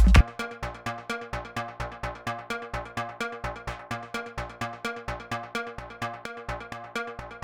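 Electronic techno track built in Ableton Live. The heavy kick drum drops out just after the start, leaving a quieter, fast, evenly repeating pattern of pitched synth and percussion hits.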